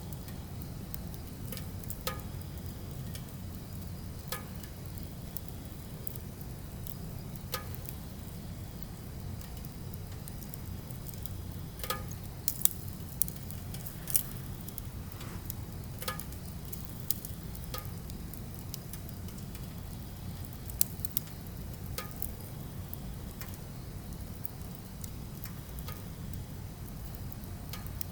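Wood fire burning: irregular sharp crackles and pops from the burning logs over a steady low rumble, with a few louder pops around the middle.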